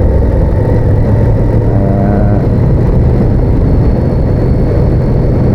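Honda VTR1000F's V-twin engine running steadily at cruising speed, heard from the riding motorcycle.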